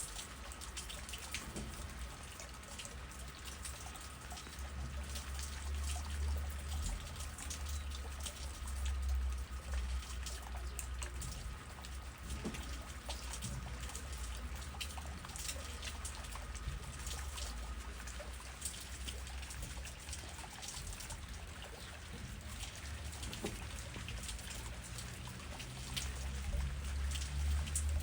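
Steady rain falling through trees, with many separate drops striking close by. Under it a low rumble of wind swells twice, once about a fifth of the way in and again near the end.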